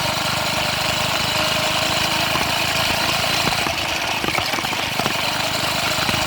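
A minibike's small engine running steadily, its firing a fast, even pulse with no rise or fall in speed.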